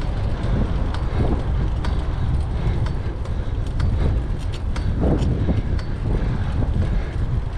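Wind buffeting the microphone while riding a fixed-gear bicycle, a steady low rumble over road noise, with scattered small clicks and rattles.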